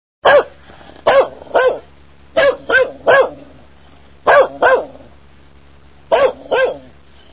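A dog barking in short runs: about ten barks in four groups of two or three, over a faint steady low hum.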